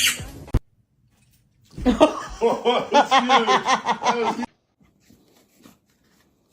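A person laughing in quick, repeated bursts for about three seconds, after a brief loud sound at the very start that cuts off suddenly.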